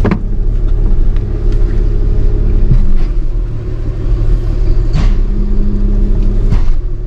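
Tow truck engine running with a steady low rumble.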